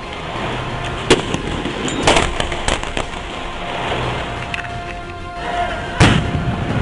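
A series of sharp bangs over a continuous noisy rumble, with music. The loudest bangs come about two seconds in and near the end.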